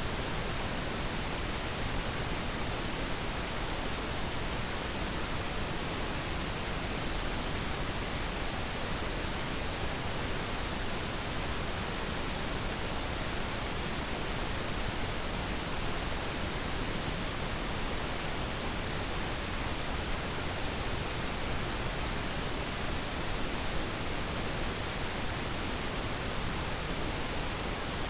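Steady synthetic pink noise: an even, unchanging hiss with no other events.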